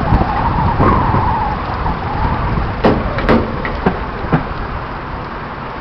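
A car driving along the road: steady engine and tyre rumble, with a wavering whine over the first couple of seconds and a handful of sharp clicks or knocks around the middle.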